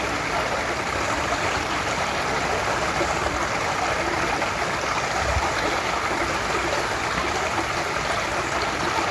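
A small woodland stream, the Prießnitz, splashing and gurgling over stones below a small waterfall: a steady rush of running water.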